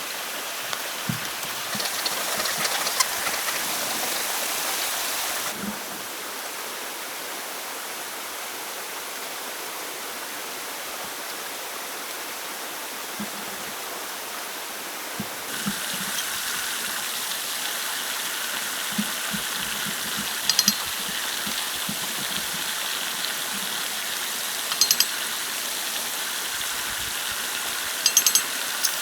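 Steady rushing of running water, like a stream, with scattered soft knocks and three short high-pitched rattling bursts in the second half.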